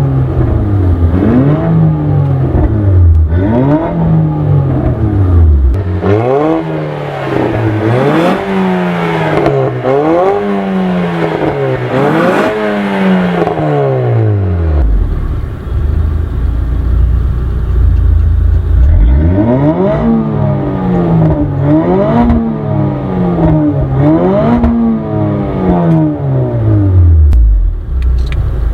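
Range Rover Evoque engine through an ARMYTRIX valved aftermarket exhaust, revved repeatedly. The pitch climbs and drops every second or two, with a stretch of steady low running about halfway through.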